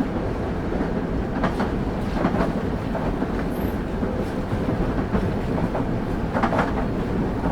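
Train running on rails with a steady low rumble, and a few clicks of the wheels passing over rail joints.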